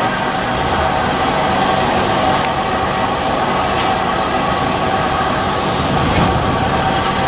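A train moving on the rails: a steady, loud rolling noise with a few faint clicks.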